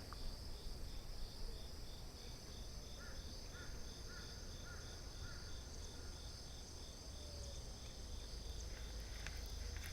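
Insects chirping steadily outdoors. One gives a regular pulsed chirp about two to three times a second that fades out about six seconds in, over a faint low rumble.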